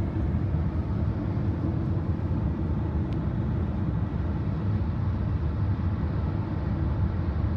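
Steady low rumble of a moving vehicle, heard from inside the cabin: road and engine noise at an even cruising speed.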